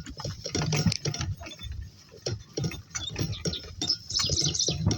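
A donkey team walking, with irregular clicks and knocks from their hooves and harness and a metallic jingle of harness hardware near the end.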